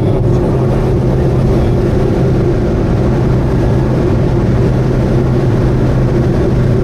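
Subaru Vivio kei car cruising at a steady highway speed: its engine and road noise make a constant drone that holds one pitch throughout.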